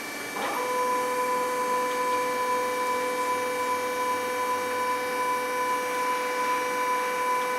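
MEP Shark 332NC EVO bandsaw's hydraulic drive running with a steady, even whine as the machine zeroes its bow after Enter is pressed. The whine starts about half a second in and holds at one pitch over the machine's constant background hum.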